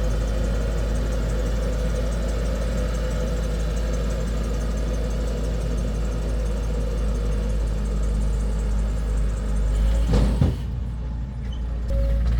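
Heavy diesel engine of construction machinery running steadily. About ten seconds in there are a few sharp knocks, and the sound drops for a moment before the engine is heard again.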